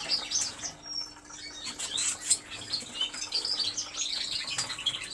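Several canaries chirping and twittering in quick, overlapping calls, with a brief lull about a second in. A single sharp tap comes about two seconds in.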